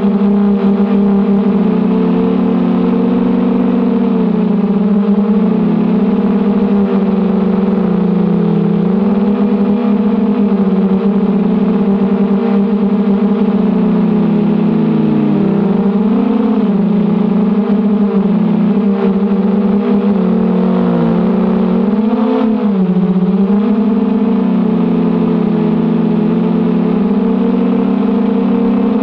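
Brushless motors (1806, 2280 kV) of a 250-size FPV racing quadcopter whirring in flight with a steady, loud whine. The pitch dips and swings back up about halfway through and again about three-quarters through as the throttle changes.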